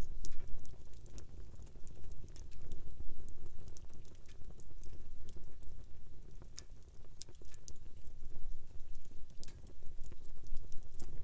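Wood campfire crackling: irregular sharp snaps and pops of burning wood over a low, steady rumble.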